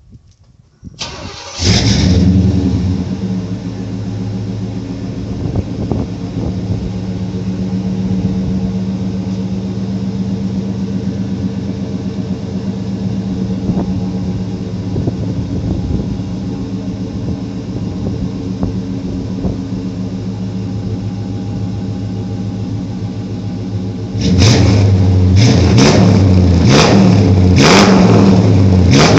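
Suburban's engine through a 2-1/2-inch dual exhaust, starting about two seconds in and catching with a brief rev, then idling steadily. Near the end it gets louder with a quick series of short revs.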